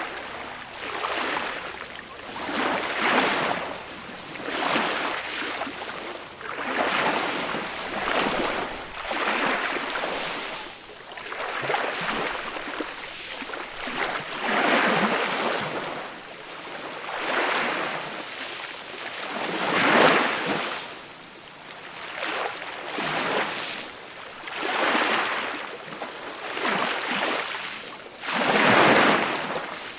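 Small, gentle waves breaking and washing up on a beach: a hiss of surf that swells and fades every second or two, with a few bigger swells, the loudest about twenty seconds in and again near the end.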